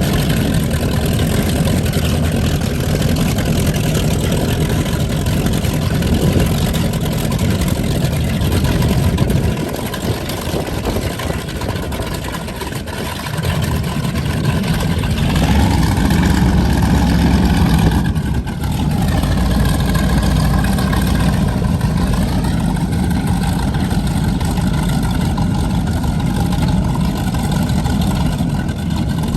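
Twin engines of a Cigarette 38 Top Gun offshore powerboat running at low speed with a deep, steady sound. The sound drops for a few seconds about a third of the way in. About halfway the engines rev up with a rising pitch, and they rise again briefly a few seconds later.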